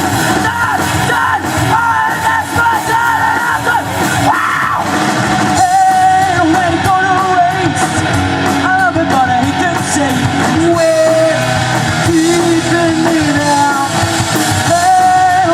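Live rock band playing loudly with electric guitar, bass and drums, with a voice yelling and singing over the music.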